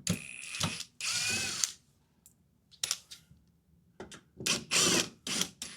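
Cordless impact driver backing screws out of a refrigerator's rear cover panel in several short runs, its motor whine rising and falling as each screw spins loose.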